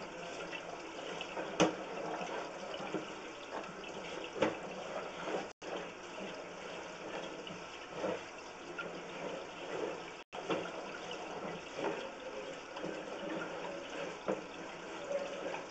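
Steady rush of running water in a sewer line, with a few faint clicks or knocks scattered through it. The sound drops out for an instant twice.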